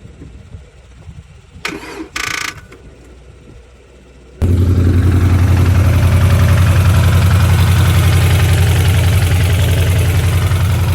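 Ford Mustang GT V8 starting: after two brief sharp sounds, the engine catches suddenly about four seconds in and settles into a loud, steady idle with an even low pulse. This is the cold-start noise the owner is checking, which his father suspects comes from the lifters.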